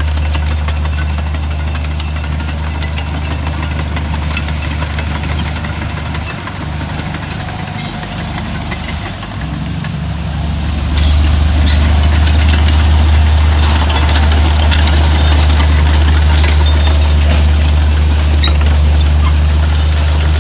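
Heavy diesel engine of earthmoving machinery running, easing off about six seconds in, then working harder and louder from about eleven seconds on, with scattered metallic clanks and rattles over it.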